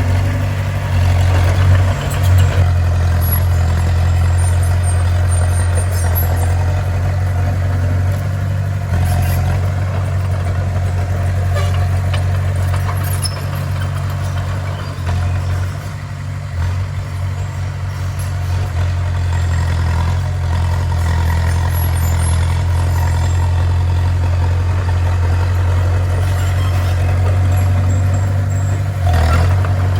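Bulldozer's heavy diesel engine running steadily with a strong low drone, easing slightly about halfway through before picking up again.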